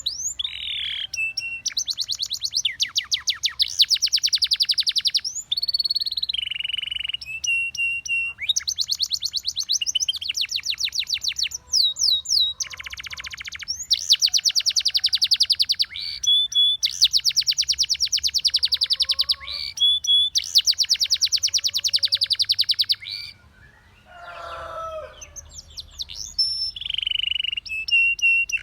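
Canary singing a long song of fast trills, each a rapid roll of repeated high notes, broken by short held whistled notes and brief pauses. A quieter, lower sweeping phrase comes in briefly near the end.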